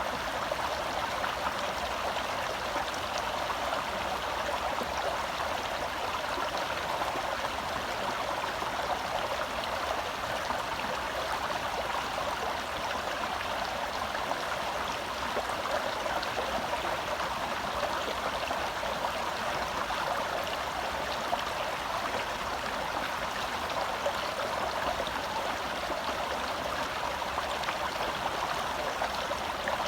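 A shallow forest stream flowing over rocks: a steady, even babble and rush of water.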